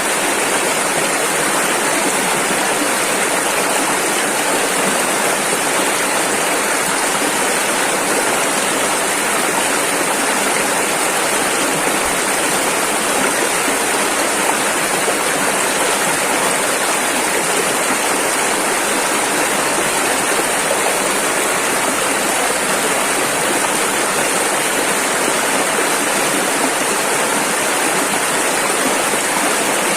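Rushing river water, a steady dense flow with no breaks or splashes standing out.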